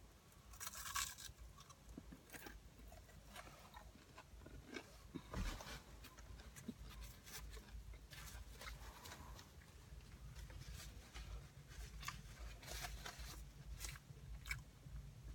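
Quiet chewing of a French fry, with small crunches and mouth clicks scattered throughout.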